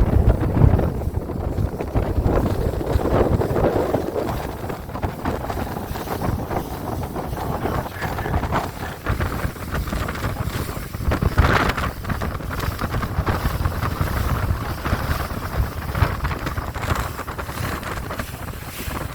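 Wind buffeting the microphone over the steady rumble of a cruise boat under way on open water, rising and falling in gusts.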